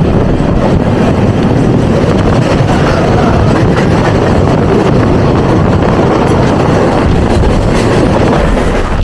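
Mumbai suburban local train running, its steady wheel-on-rail rumble heard from inside a moving carriage with the doors open.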